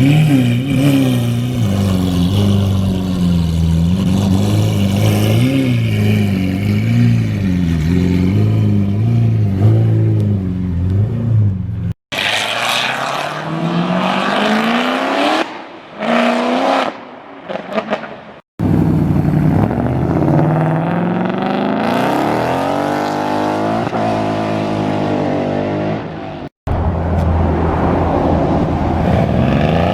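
Car engines idling and revving, with the pitch rising and falling as the throttle is blipped. The sound comes as several separate clips, each ending with an abrupt cut.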